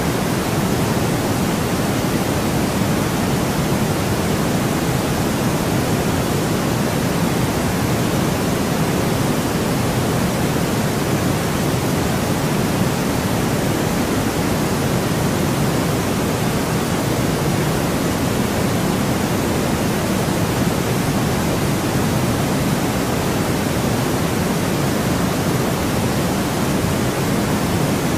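Steady synthetic white noise: an even, unchanging hiss, fuller in the low end.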